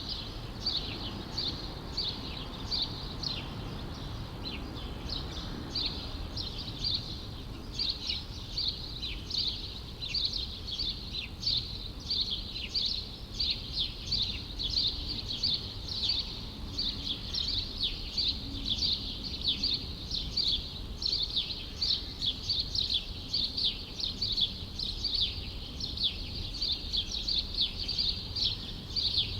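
Small birds chirping rapidly and continuously, many short high calls a second, over a low, steady rumble of city background noise.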